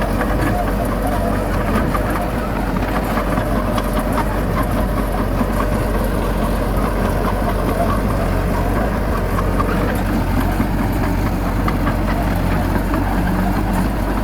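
Heavy diesel engine of earth-moving machinery running steadily, an even low drone with a continuous rattle over it.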